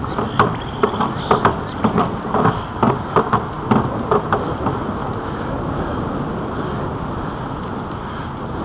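Steady wind and riding noise of a bicycle moving along a trail, with a run of irregular sharp clicks and knocks over the first four seconds or so, then just the steady rush.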